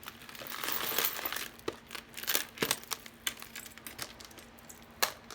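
Crinkling, as of a plastic bag being handled, for about a second, followed by scattered small clicks and taps of a chunky chain and other jewelry being handled, the sharpest click near the end.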